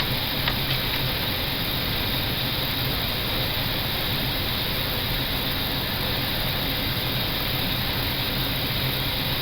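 Steady flight-deck noise of an Airbus A320neo in flight: an even rush of air over a constant low hum, with no change in level.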